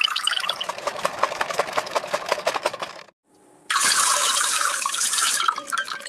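Running, splashing water with a dense patter of small clicks; it breaks off about three seconds in and comes back as a louder, hissier stream.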